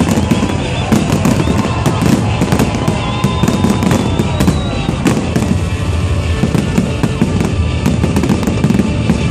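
Fireworks going off without a break: a dense, loud run of bangs and crackles.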